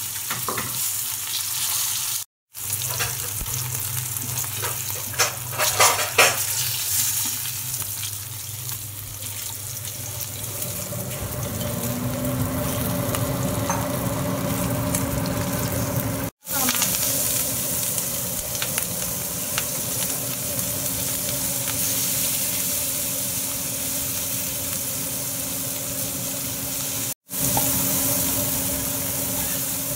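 Hilsa fish steaks sizzling in hot oil in a frying pan, with a few knocks against the pan; later, sliced onions and green chillies frying. A steady low hum comes in about a third of the way through and stays.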